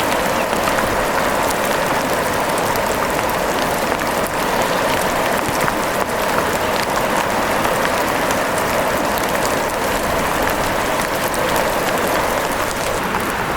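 Steady rain falling, a dense, even patter of drops with scattered sharper ticks.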